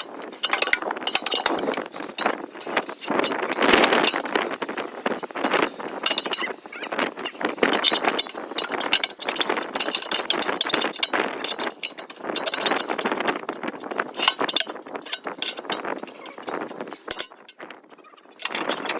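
Irregular clinking, clattering and scraping of metal tools and parts being handled.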